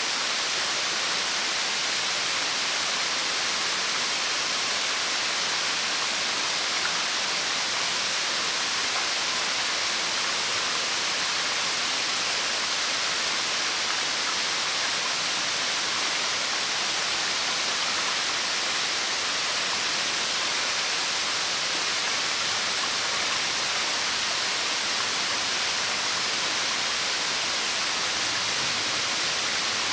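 A 30 m branching waterfall plunging, a steady hiss of falling water.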